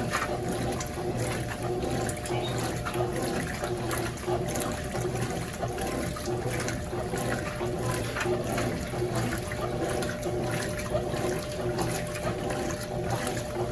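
Consul CWS12 12 kg top-load washing machine in its rinse, sloshing water and jeans in the drum over a steady motor hum.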